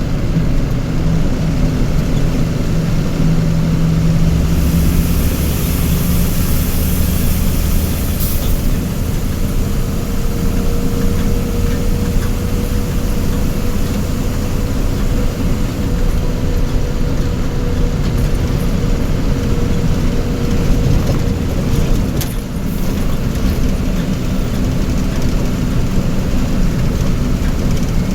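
A motor vehicle's engine running steadily with a continuous low drone. A hiss rises about five seconds in and stops about three seconds later.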